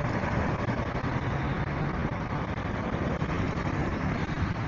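A 70cc motorcycle being ridden through traffic: a steady low engine rumble under constant road and traffic noise.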